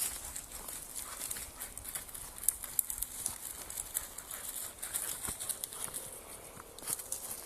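Irregular crunching and rustling footsteps, a dense run of small sharp clicks and crackles with no steady rhythm.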